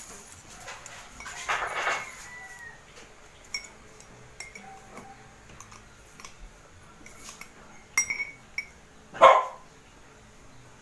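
A dog barks twice, a longer bark about a second and a half in and a short sharp one near the end. Between the barks, metal cutlery clinks against glass and ceramic dishes.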